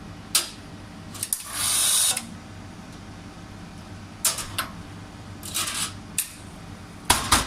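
Metal clicks and knocks of espresso equipment being handled at a coffee machine, over a steady low hum. A brief rushing noise, under a second long, comes about two seconds in, and a loud knock comes near the end.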